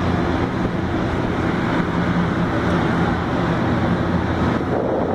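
Aircraft engines running steadily during a flying display: a loud, even rush with a low steady hum under it. Near the end the hum fades and wind buffets the microphone.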